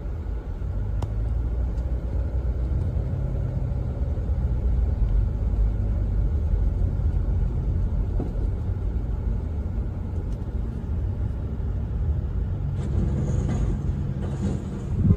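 Steady low rumble of a motor vehicle on the road, with engine and road noise as a dashcam picks it up. Near the end there is a brief, louder burst of noise.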